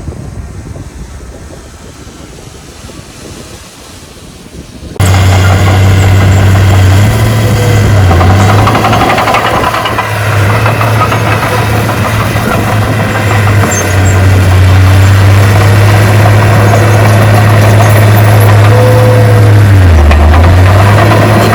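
Heavy construction machine's diesel engine running with a steady, loud low hum, its pitch dipping briefly twice as the load changes. It cuts in abruptly about five seconds in, after a quieter low rumble.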